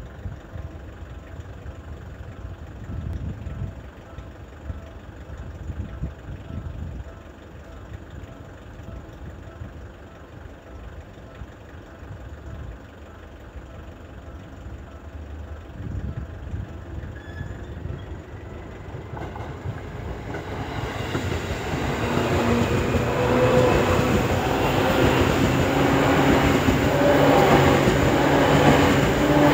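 Gusty wind rumbling on the microphone, then from about two-thirds in a yellow Seibu commuter electric train approaching and passing close by. Its wheels rumble and clatter over the rails and the sound grows loudest near the end.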